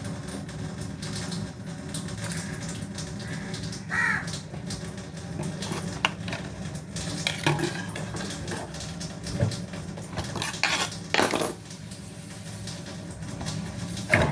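Pots, dishes and utensils clinking and clattering now and then, over a steady low background hum.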